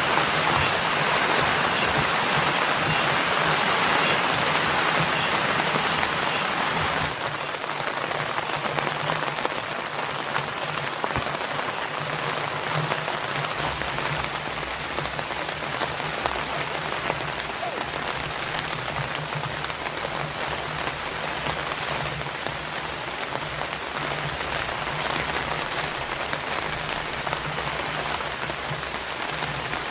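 Steady rain falling and pattering on surfaces. A louder hiss in the first seven seconds or so drops away, leaving an even rain noise over a low steady hum.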